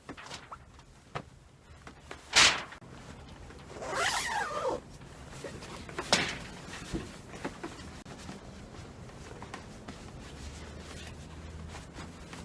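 A zipper pulled on gear being packed up, with a sharp rasp about two and a half seconds in and a longer zip a little later. Knocks and clicks of the gear being handled come before and after.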